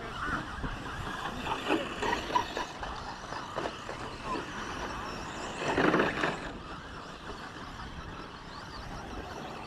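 Radio-controlled 2WD short course trucks running around the race track, a steady noisy churn with brief louder spikes, the loudest swell about six seconds in.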